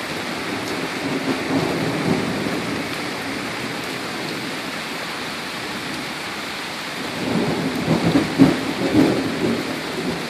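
Heavy rain pouring steadily during a rainstorm. A louder, uneven low rumble swells up about a second in and again from about seven seconds until near the end.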